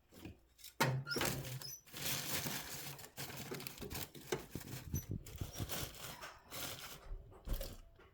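Paper being crumpled and rustled by hand in irregular bursts, with a few faint squeaks, as kindling paper is readied for lighting a fire.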